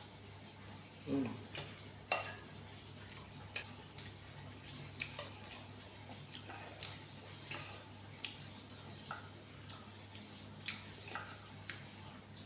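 Cutlery clinking and scraping against a bowl of instant noodles, in about a dozen sharp, irregular clicks, the loudest about two seconds in.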